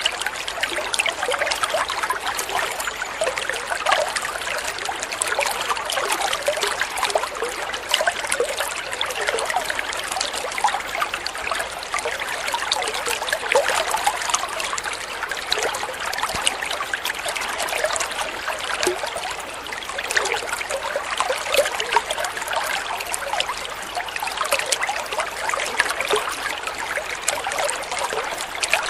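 Water flowing and trickling steadily, with many small splashes and gurgles.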